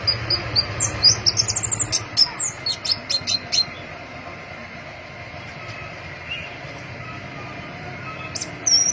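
Crimson-breasted flowerpecker (pentis pelangi) calling: a quick run of high, thin chirps in the first few seconds, then only a few, with another short burst near the end.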